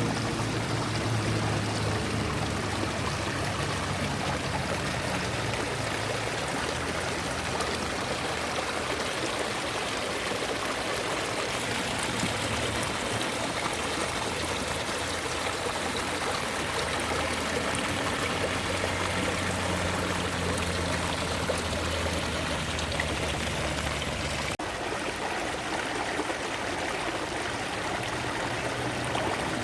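Water rushing steadily in a stream, with a low hum underneath. The sound changes abruptly about three quarters of the way through.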